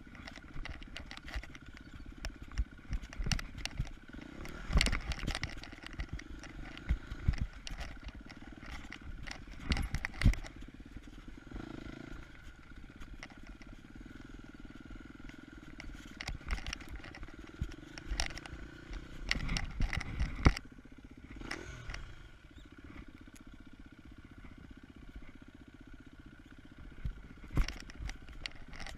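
KTM 250 EXC-F single-cylinder four-stroke enduro motorcycle engine running steadily at part throttle, with many sharp knocks and clatters as the bike rides over rough trail, in clusters around 4 to 5 seconds in, about 10 seconds in, between 17 and 21 seconds in and near the end.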